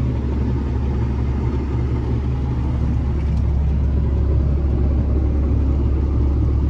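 Tractor's diesel engine running steadily under load, a continuous low drone.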